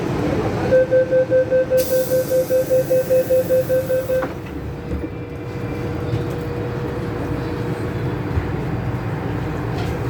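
MTR M-Train door-closing warning: a rapid beeping tone, about six beeps a second for about three and a half seconds, ending with a click as the doors shut about four seconds in. After it, the steady hum and rumble of the metro train.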